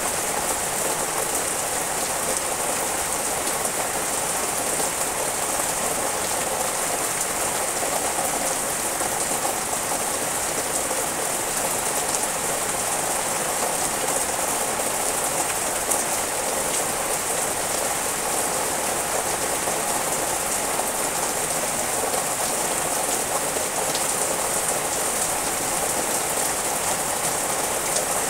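Rain falling steadily on leafy trees, an even hiss that does not let up.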